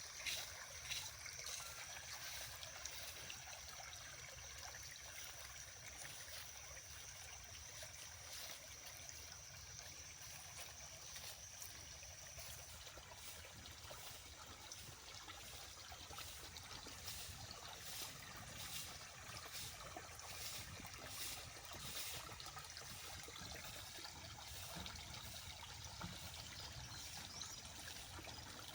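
Small clear stream trickling and burbling steadily.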